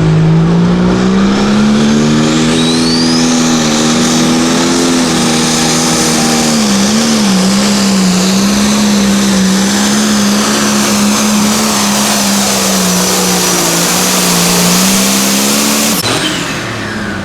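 Diesel pulling tractor's engine at full throttle under load during a pull. The pitch climbs over the first few seconds, wavers and dips briefly about seven seconds in, then holds steady until the engine sound ends abruptly near the end.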